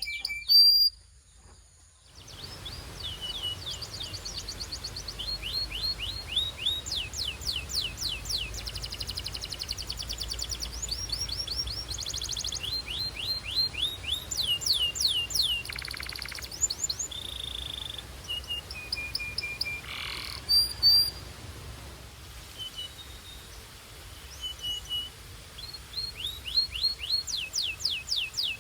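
Belgian canary singing: long rapid trills of repeated down-sweeping high notes, broken by a few held whistled notes, after a brief pause about a second in.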